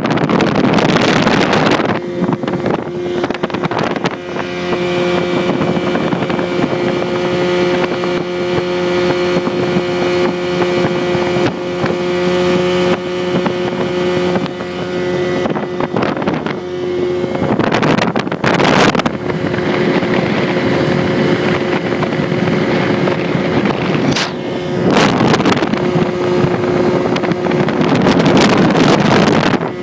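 A small speedboat's 85 hp motor running at a steady speed, with several gusts of wind rushing over the microphone.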